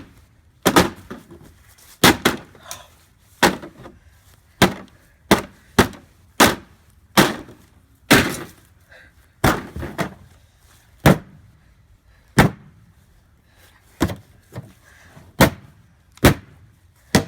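Hammer repeatedly striking a refrigerator door, about twenty sharp blows at an uneven pace of roughly one a second, each with a short ringing after it.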